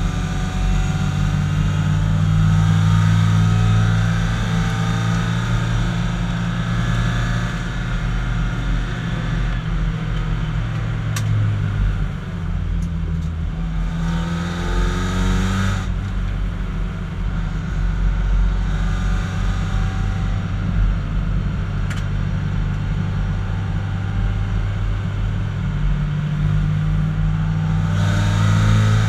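BMW 318i race car's four-cylinder engine running hard under load, heard from inside the cabin over wind and road noise. Its pitch climbs and then drops back about sixteen seconds in, as at a gear change, and climbs again near the end.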